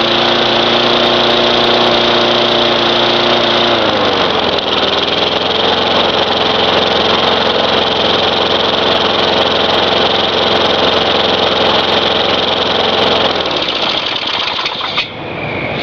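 Tecumseh (Craftsman Eager 1) 4.5 hp lawn mower engine running steadily after starting; its speed changes about four seconds in, and the engine note dies away near the end.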